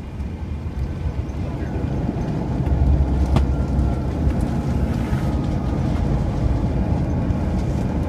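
Cabin noise of a CRJ-900 regional jet on its landing roll: a steady low rumble that grows louder about two and a half seconds in, with a single sharp knock just after.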